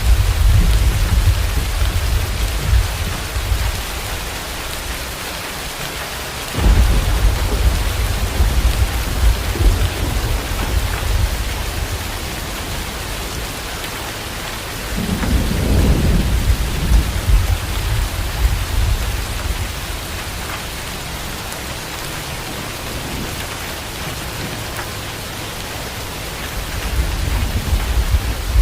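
Steady heavy rain with rolling thunder. A deep rumble sounds at the start, another breaks in suddenly about six seconds in, a third swells around fifteen seconds, and a fourth builds near the end.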